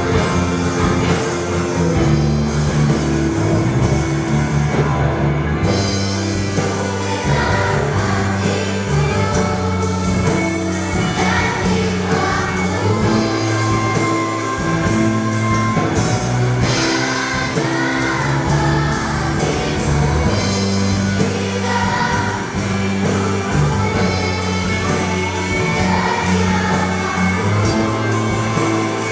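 Choir singing a hymn with instrumental accompaniment that keeps a steady beat.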